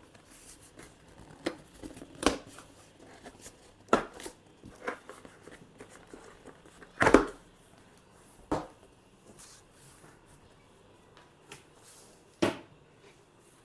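Stapled cardboard speaker box being opened and its packing handled: irregular crinkles, tears and sharp knocks of cardboard, with the loudest knock about seven seconds in.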